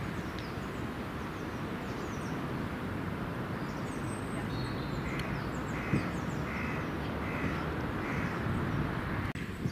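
A bird calling five times in a row, short calls about two-thirds of a second apart from about halfway through, with smaller birds chirping over steady wind and outdoor noise.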